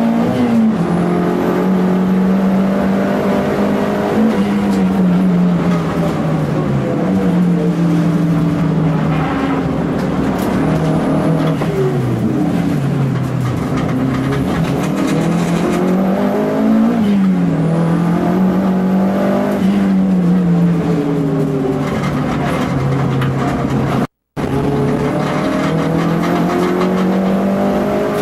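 Toyota Starlet EP82 GT Turbo's 1.3-litre turbocharged four-cylinder engine heard from inside the cabin at race pace. The revs climb and drop again and again through gear changes and braking. The sound cuts out for an instant near the end.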